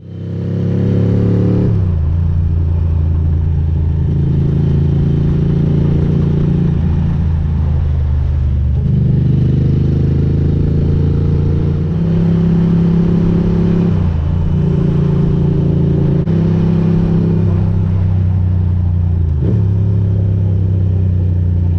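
Ducati GT1000's air-cooled L-twin engine through aftermarket Termignoni exhaust pipes, running under way. Its note holds steady for a few seconds at a time and then steps up or down in pitch, about six times.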